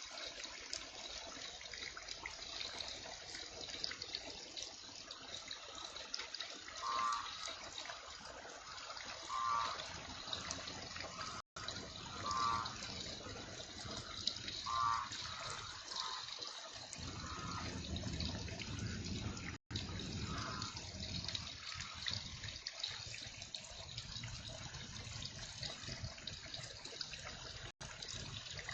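Heavy rain falling steadily, a continuous hiss of water with trickling runoff. Brief high chirps recur every two or three seconds through the middle, and a low rumble swells for a few seconds past the middle.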